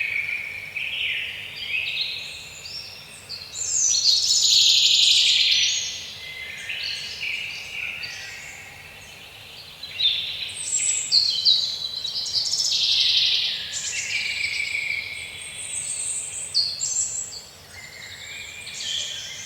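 Several birds chirping and singing at once: overlapping high calls and trills that grow louder and fade back every few seconds.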